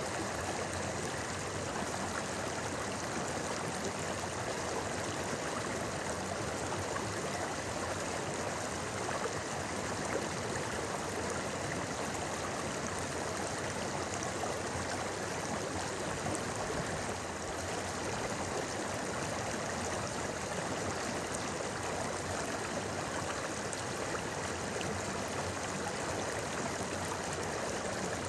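A shallow river flowing over stones, a steady rushing and babbling of water.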